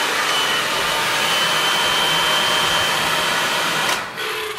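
Hand-held hair dryer blowing steadily with a faint high whine, switched off about four seconds in.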